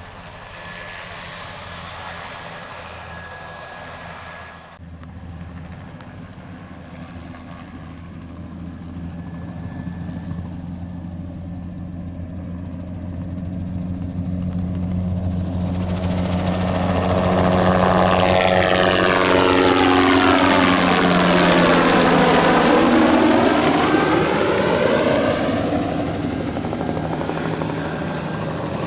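Single-turbine crop-spraying helicopter flying a low pass: the rotor and turbine grow steadily louder as it approaches, are loudest as it passes close by about two-thirds of the way in, with the pitch dropping, then begin to fade.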